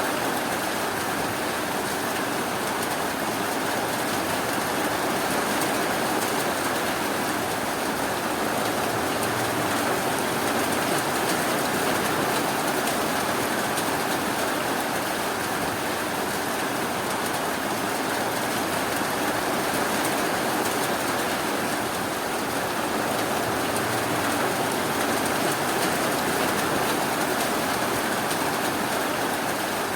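Steady rainfall: an even, unbroken hiss with no thunder claps or other events.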